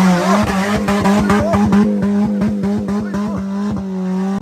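Car engine held at high revs with its exhaust pipe torn off, a loud, raw steady drone, with a rapid run of cracks and knocks through the middle as the tyres spin and scrabble for grip.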